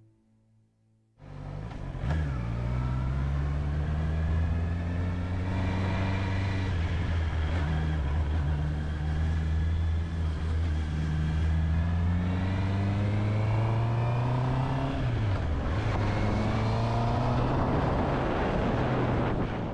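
Honda CB650R's inline-four engine running under way, cutting in after about a second of silence. Its pitch climbs several times as it accelerates, with a brief dip about three-quarters of the way through.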